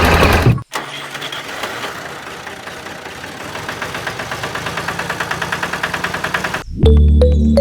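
The small motor of a DIY miniature tractor running with a rapid, regular ticking that grows steadily louder. Background music plays briefly at the start, and again from near the end.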